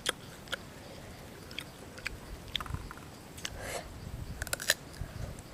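A person chewing and biting crisp green guava up close: scattered crunches and wet mouth clicks, with a cluster of crunches near the end as a fresh bite is taken.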